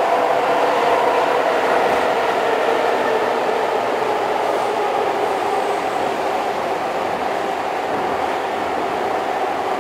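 Running noise heard from inside a Keihan 2600 series electric commuter car: a steady rumble of wheels and motors on the rails that grows gradually a little quieter.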